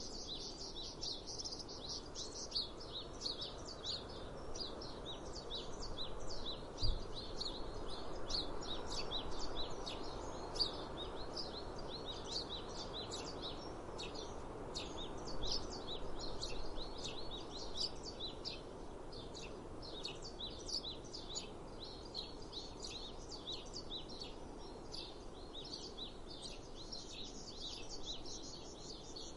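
Small birds chirping in rapid short high notes, many calls overlapping, over a steady rushing background of breeze. There is one brief low bump about seven seconds in.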